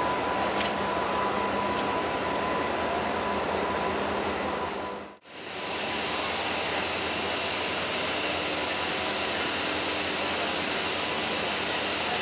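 Steady rushing hum of train machinery in a railway station, with a faint steady whine in the first half. The sound drops out briefly about five seconds in, then the same steady noise carries on.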